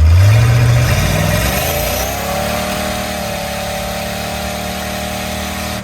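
Twin-turbocharged small-block Chevy 350 V8 revving up, its pitch climbing over the first two seconds and then holding steady at high revs under load.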